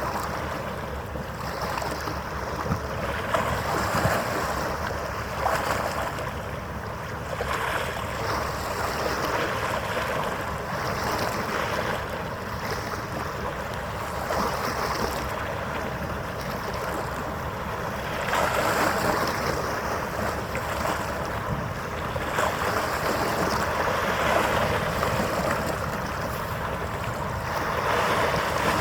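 Harbour ambience: wind on the microphone and water washing, swelling and easing every few seconds, over a faint steady hum.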